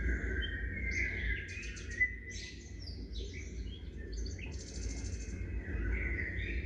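Several small songbirds chirping and calling in quick, overlapping short notes and trills, over a steady low rumble.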